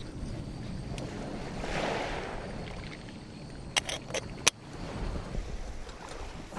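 Ocean waves washing onto the beach, one wash swelling and fading about two seconds in, over a low steady rumble of wind and surf. About four seconds in, a quick run of four or five sharp clicks or snaps.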